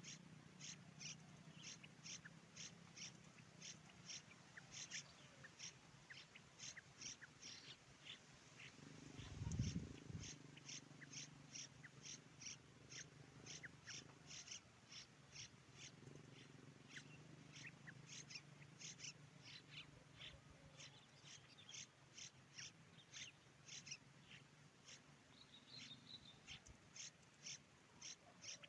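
Faint, rapid, evenly repeated high-pitched calls, about two a second: the begging of a cuckoo chick being raised in a drongo's nest. A single low thump comes about nine and a half seconds in.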